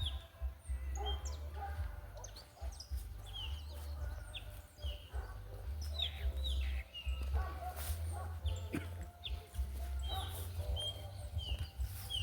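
Small birds chirping repeatedly in short, falling notes, over a steady low rumble of wind on the microphone.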